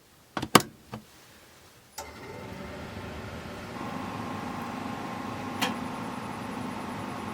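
A few sharp clicks, then a small motor starts about two seconds in and runs steadily with a hum and a faint whine, with one more click near the end: a camper's propane furnace blower coming on.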